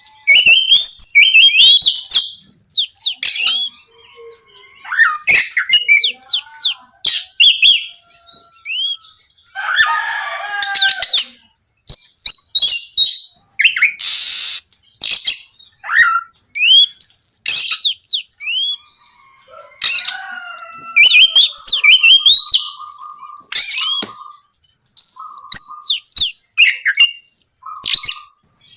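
Oriental magpie-robin (kacer) singing loudly and continuously: quick runs of rising whistled notes and varied phrases, broken now and then by harsh rasping notes.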